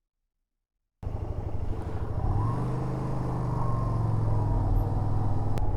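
Yamaha SRV250's air-cooled V-twin engine running while riding, cutting in abruptly about a second in; its pitch rises slightly soon after and then holds steady.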